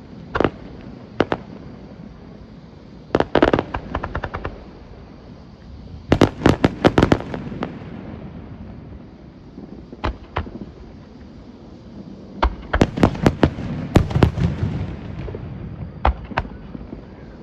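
Aerial fireworks bursting: single sharp cracks and dense clusters of rapid crackling pops, in several rounds with short pauses between.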